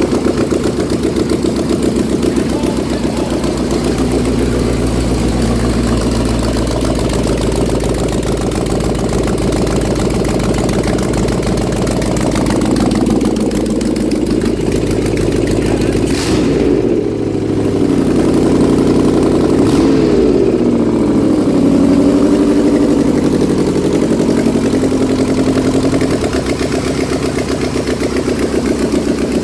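GM LS V8 engine running with open exhaust ports and no exhaust system, missing on two cylinders so that it runs on six. Revved up and back down a few times about halfway through.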